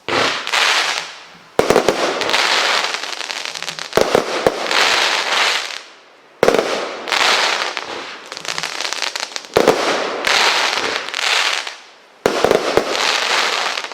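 Dragon's Tail consumer firework cake firing: about six sharp bangs a couple of seconds apart, each followed by a second or two of dense crackling.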